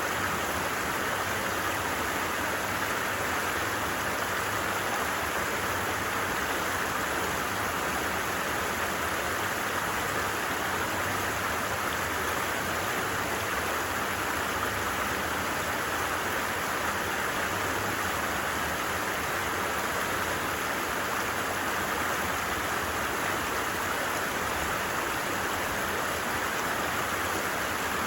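A stream's running water, a steady unbroken rush of noise.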